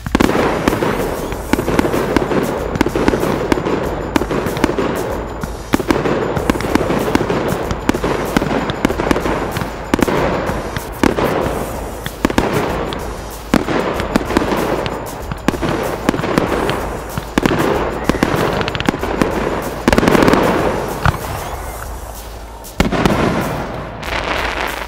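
Fireworks display at close range: shells launching from mortars and bursting overhead in a continuous barrage of bangs and crackle, with louder bursts every second or two.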